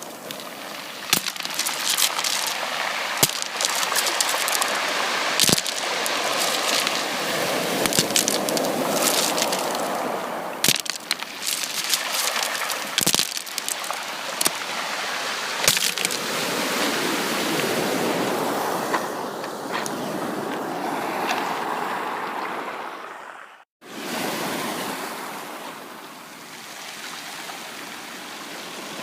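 Sea waves washing in, swelling and ebbing, with many sharp crackles and ticks through the first half. The sound cuts out to silence for a moment about two-thirds of the way through, then the wash resumes.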